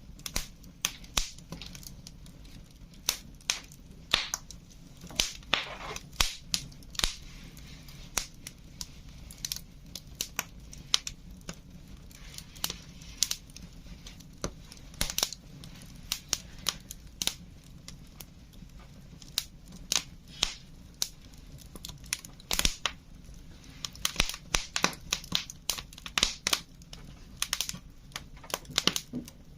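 Wood fire crackling: burning logs giving irregular sharp pops and snaps over a steady low background, coming thick and fast for a few seconds near the end.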